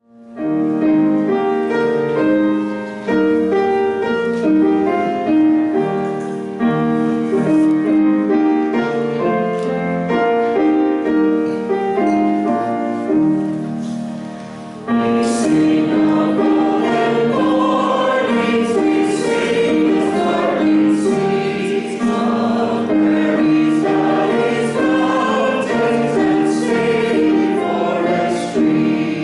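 A choir singing, with held notes that change in steps. About halfway through, the sound dips briefly and then comes back fuller and brighter.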